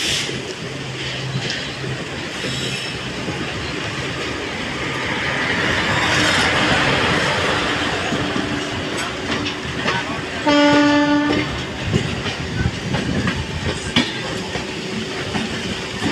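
A train running through the station, its wheels clicking over the rail joints, with a swell of hiss partway through. About ten seconds in, the locomotive sounds one horn blast lasting about a second.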